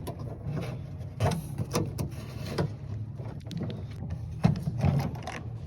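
Irregular clicks and knocks of plastic clips and metal parts as a GM truck tailgate handle assembly is pushed up out of its clips and worked free, over a steady low hum.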